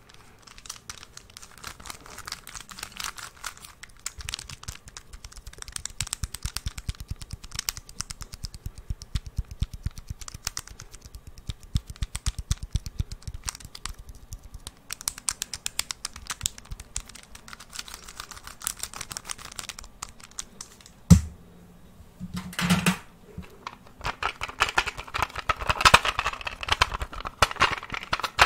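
Fast runs of light tapping and clicking on a hard object, like fingernails on plastic, with one sharper knock about two-thirds of the way in and a denser scratching, rustling stretch near the end.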